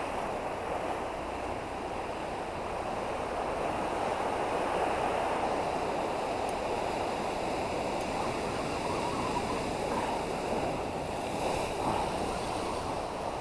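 Ocean surf washing steadily, a continuous rush that swells a little now and then.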